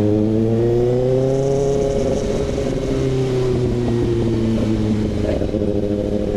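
Kawasaki ZX-6R inline-four engine running through an SC Project CRT exhaust, held at a steady throttle while riding. Its pitch rises a little over the first second or so, then eases slowly down.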